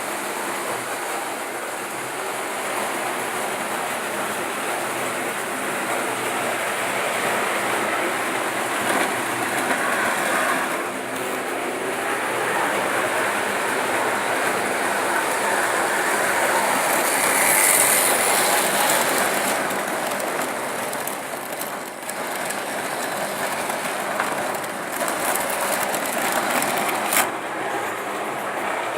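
Märklin model train running on its track, a steady rolling noise that swells a little about two-thirds of the way through, with a sharp click near the end.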